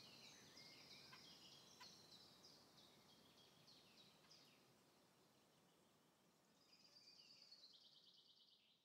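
Near silence with faint birdsong: quick chirps that thin out by the middle, then a rapid trill near the end.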